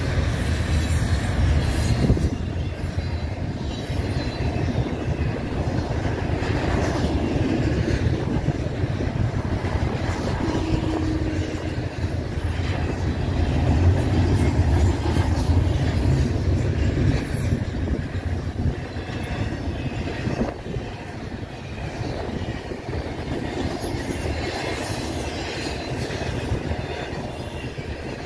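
Double-stack intermodal well cars of a CN freight train rolling past at close range: a steady rumble and clatter of steel wheels on rail, easing slightly near the end.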